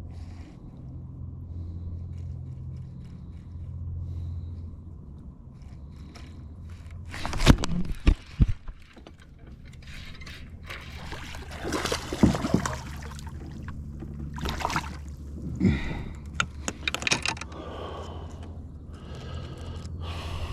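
Sounds of a kayak on the water: a low steady hum with several sharp knocks, scrapes and splashes against the hull, the loudest pair about seven to eight seconds in and more in the second half.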